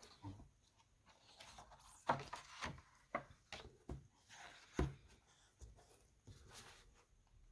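Faint handling noise of a sound book: scattered light taps, knocks and rustles, with two slightly louder knocks about two seconds in and near five seconds in.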